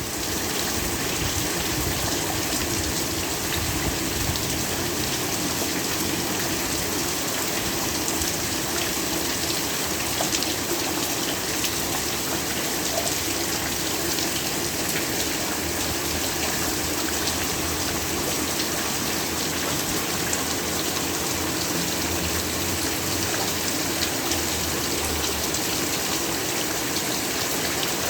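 Heavy, steady rainfall: a dense even hiss of rain with fine individual drop patter.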